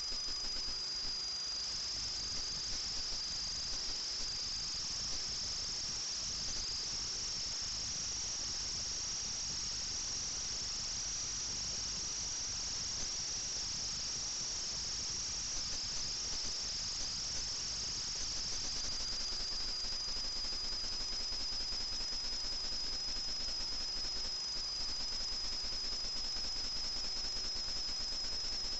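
FPV quadcopter's electric motors and propellers whining high and steady, the pitch drifting up and down a little, over a constant hiss; a touch louder from about two-thirds of the way in.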